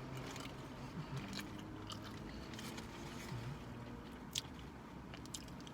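A person chewing a mouthful of burger: soft, scattered wet clicks and crunches, over a faint low steady hum.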